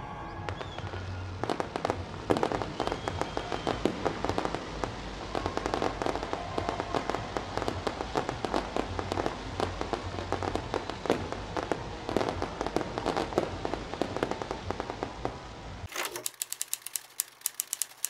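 A fireworks display: a dense, irregular run of bangs, cracks and crackling shells. About 16 seconds in it cuts off abruptly and a fast, even run of sharp clicks takes over.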